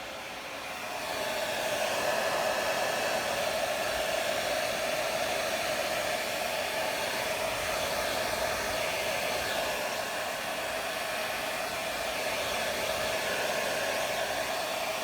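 Hair dryer running with a steady airy rush and hum, getting louder about a second in and then holding level.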